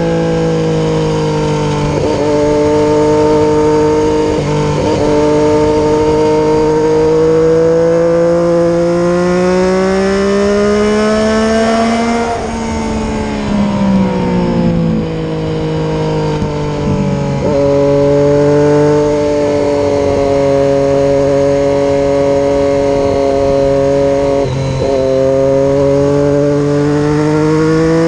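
Triumph Daytona 675R's three-cylinder engine running under way at road speed, heard onboard with wind rush. The note climbs slowly for about twelve seconds, then drops, with a few brief breaks in the note along the way.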